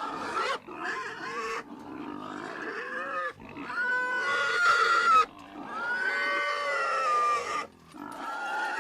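Pig squealing: a run of about six long, high-pitched cries with short breaks between them. The loudest comes about four seconds in.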